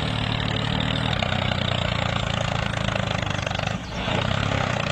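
Small engine of a home-built mini tractor running steadily, with a brief drop in level just before the end.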